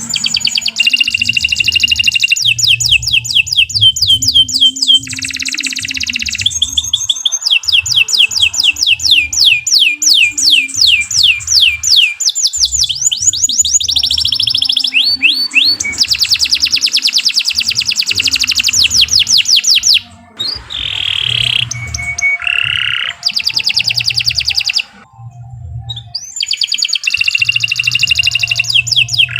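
Domestic canary singing a long, loud song made of fast trills, each a rapid run of the same short note repeated many times before switching to the next trill. The song breaks off briefly about 20 and 25 seconds in.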